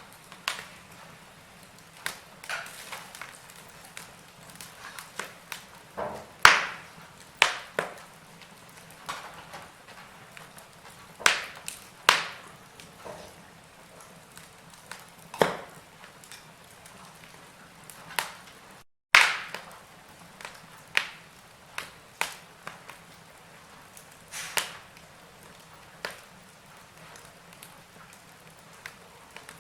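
Wood fire in a fireplace crackling: irregular sharp pops and snaps, some much louder than others, over a faint steady hiss. The sound cuts out for a moment about two-thirds of the way through.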